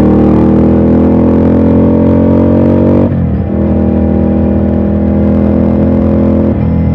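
Ducati Scrambler's air-cooled L-twin engine pulling under acceleration, its pitch rising steadily for about three seconds, then dropping suddenly at a gear change and running steady, with another step in pitch near the end.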